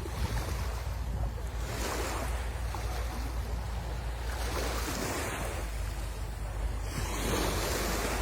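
Sea waves breaking and washing up the shore, surging in swells about every two to three seconds, over a steady low rumble of wind on the microphone.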